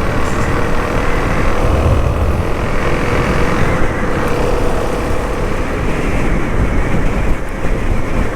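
Suzuki DR-Z400S single-cylinder engine running steadily at road speed, mixed with wind and road noise at the rider.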